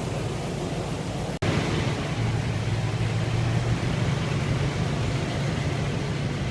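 Car engine running steadily with a low hum. About a second and a half in, the sound cuts out for an instant and comes back a little louder.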